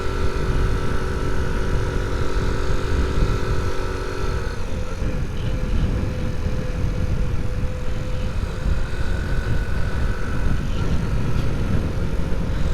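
Honda C90's small single-cylinder four-stroke engine running steadily while riding, its note changing about four and a half seconds in, under heavy wind rumble on the microphone.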